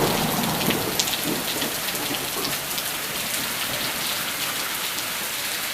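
Heavy rain falling: a steady hiss of downpour with many individual drops ticking on surfaces.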